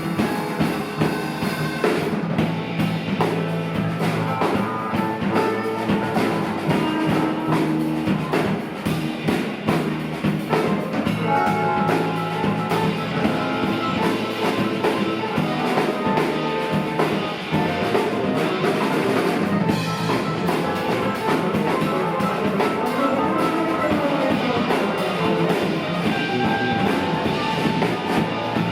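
Live rock band playing an instrumental passage: drum kit keeping a steady beat under electric guitar and bass, a long jam with no singing.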